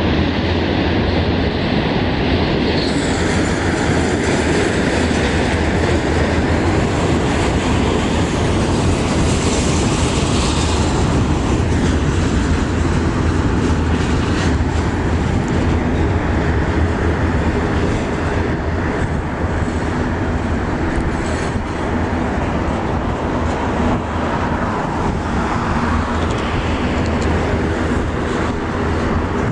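Canadian National container train rolling past at speed: a steady rumble of freight cars with wheels clicking over the rail joints.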